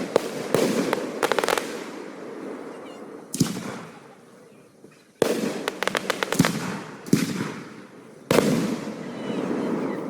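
Aerial fireworks going off: a string of shell bursts, each a sudden bang with a rolling echo, some followed by rapid crackling. The biggest bursts come about five seconds in and again near eight seconds.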